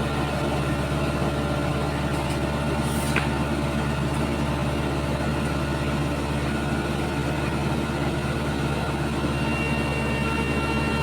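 Heavy engine of road-paving machinery running steadily at a constant speed. A few thin high tones join in near the end.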